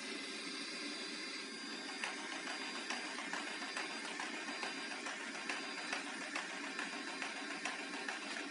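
Xiaomi Mi Robot Vacuum running: a steady whirring motor noise, with light irregular ticks from about two seconds in.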